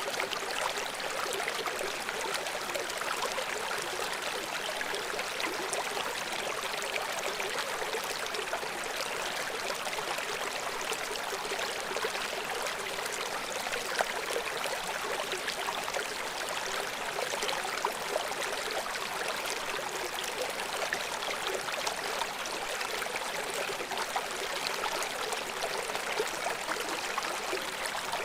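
River water running over rocks below a small waterfall: a steady rushing and splashing, its sound sitting mostly in the mid and high range with little low rumble.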